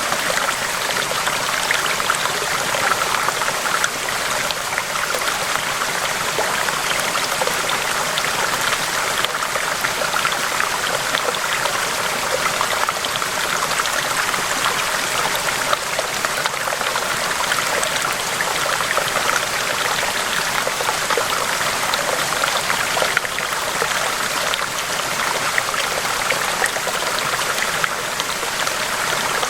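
River water flowing in a steady, even rush, bright and hissy with little deep rumble.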